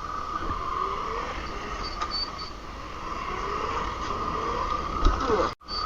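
48-volt Razor MX350 electric dirt bike being ridden: the steady whine of its electric motor and chain drive, with a fainter pitch that rises and falls with speed. A thump comes about five seconds in, then the sound drops out briefly.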